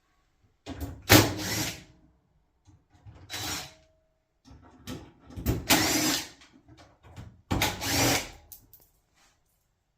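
Cordless drill-driver running in four short bursts of about a second each, backing screws out of a dryer's panels.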